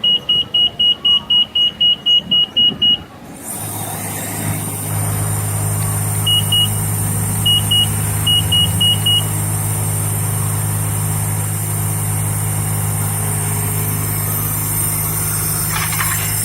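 A quick run of about a dozen high electronic beeps from a self-service car wash bay's pay station. Then the bay's pump motor starts and runs with a steady hum and hiss, and a few more short beeps sound over it.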